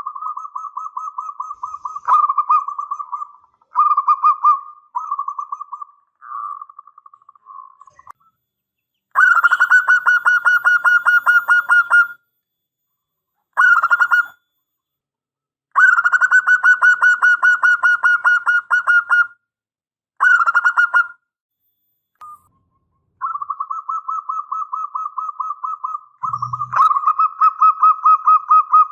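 Zebra dove (perkutut) calling: repeated phrases of rapid, trilling coo notes, each a second or a few seconds long with short pauses between, some phrases louder and slightly higher than others. A brief low knock sounds near the end.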